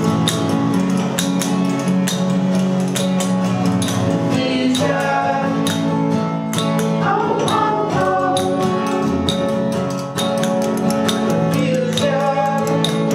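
A band playing a song live in a bathroom: guitar strumming steady chords under an even percussion beat, with a singing voice coming in through the middle.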